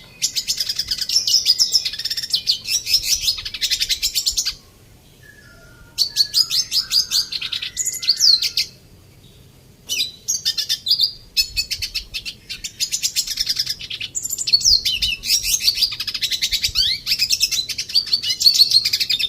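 Red siskin singing: long phrases of rapid, high twittering, broken by two pauses of about a second and a half, one about a quarter of the way in and one near the middle.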